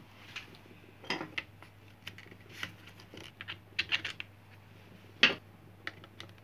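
Small metal clicks and clinks at irregular intervals as screws are set into an angle grinder's housing with a screwdriver during reassembly, the sharpest clink about five seconds in.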